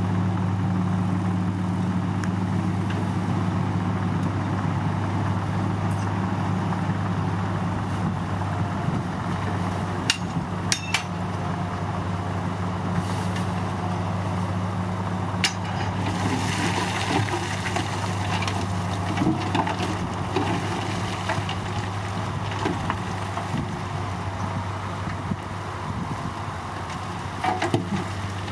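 A Komatsu D53 crawler bulldozer's diesel engine running steadily, with a few sharp clanks about a third and halfway through.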